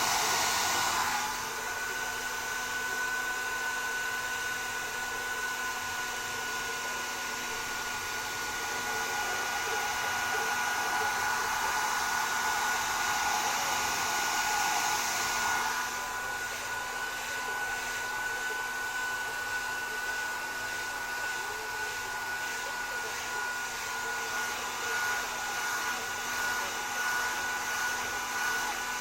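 Hair dryers running: a steady rush of blown air with a thin high whine. The rush dips about a second in, swells through the middle, and drops back a little past halfway.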